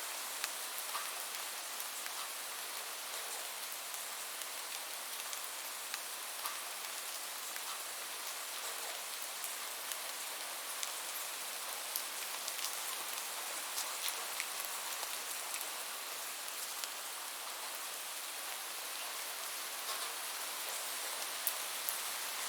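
Steady rain falling, a continuous even hiss with many scattered sharp drop ticks.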